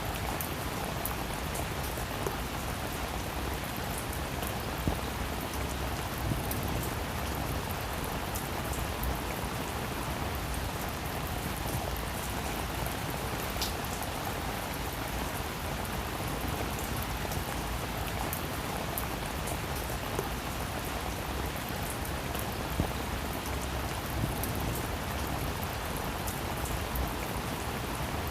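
Heavy rain falling steadily, a dense even hiss with the patter of individual drops striking a surface.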